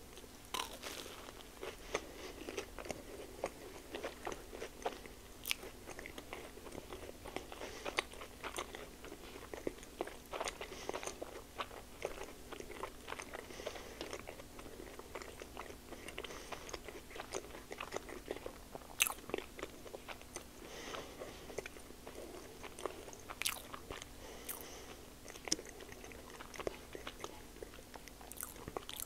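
Close-miked eating of a blueberry-pancake-wrapped sausage on a stick: bites and steady chewing with many sharp, wet mouth clicks and smacks.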